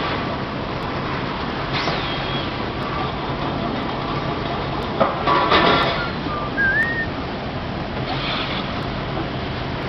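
Factory machinery on a water-heater tank production line running with a steady hum, broken by short high squeals about two seconds in and near seven seconds, and a brief burst of clattering around the middle.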